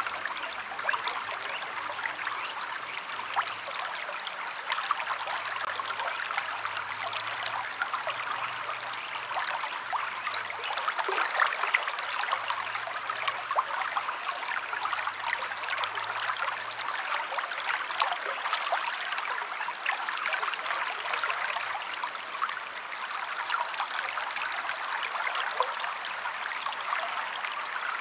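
River water flowing and trickling over rocks: a steady rush with many small splashes throughout.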